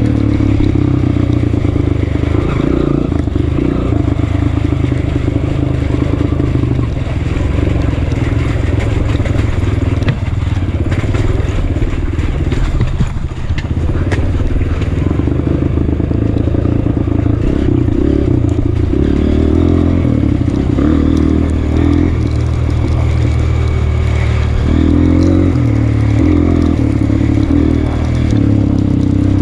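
Honda CRF230F trail bike's single-cylinder four-stroke engine running under way, its note rising and falling with changes of throttle.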